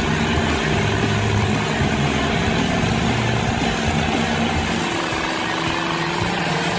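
Engine of heavy machinery running steadily, with a broad hiss of noise over its low hum.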